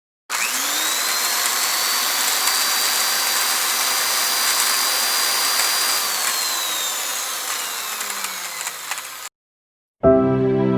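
A motor-driven tool spinning up to speed with a high whine over a hiss, running steadily, then slowly winding down before cutting off.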